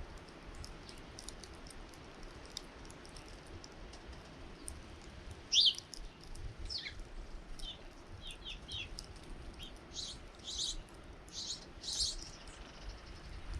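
Small birds chirping at a bird feeder: scattered short, high calls, the loudest a quick falling chirp about halfway through, then a run of brief notes and several harsher chirps toward the end.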